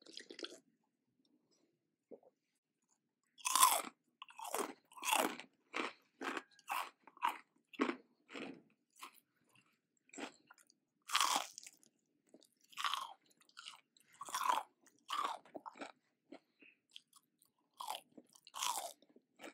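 Crispy Cheetos-crusted fried chicken bites being chewed close to a microphone: irregular crunches, one or two a second, beginning about three and a half seconds in after a near-quiet start.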